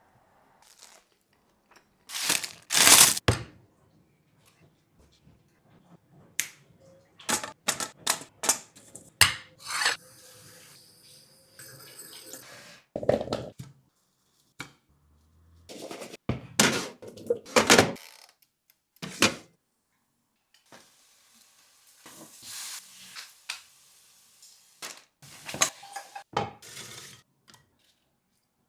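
Kitchen handling sounds: a series of separate clinks, knocks and short scraping or rustling noises from dishes and utensils, with brief quiet gaps between them.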